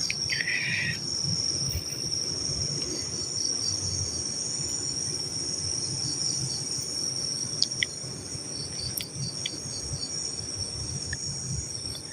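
Crickets and other night insects calling: a steady high-pitched trill with a fainter pulsing chirp several times a second. A few faint clicks in the second half.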